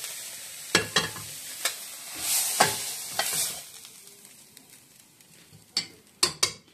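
Fried spinach paste sizzling as a metal spatula scrapes it out of a steel frying pan into a hot pot, with sharp scrapes and knocks of the spatula on the metal. The sizzle swells, then dies away about four seconds in, and a few more spatula clinks come near the end.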